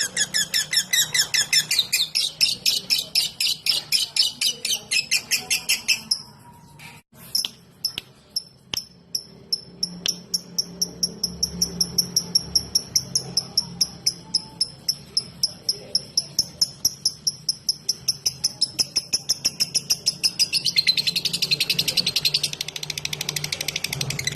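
Lovebird giving its rapid 'ngetik' ticking song: a fast, even string of high chirps, several a second. It breaks off briefly about six seconds in, resumes as clearer, thinner repeated notes, and turns to denser, rougher chatter near the end.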